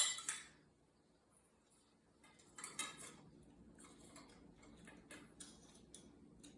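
Faint, scattered clicks and light rattles of ceiling fan parts and wiring being handled. A sharper clatter comes right at the start.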